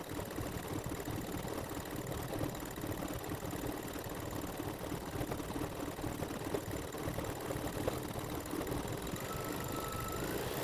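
Embroidery machine running steadily, its needle making a fast, even chatter while it stitches a satin-stitch edge. A faint, high, steady whine comes in about nine seconds in.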